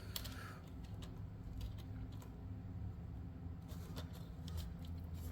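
Faint, scattered clicks and light taps of small plastic parts being handled as plastic steps are pressed into the slots of an H0 scale model railway car, over a steady low hum.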